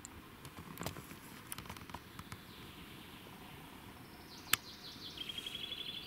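A songbird singing: a run of high falling notes in the second half, ending in a fast, even trill on one pitch. Before it come scattered light rustles and ticks, and one sharp click about four and a half seconds in.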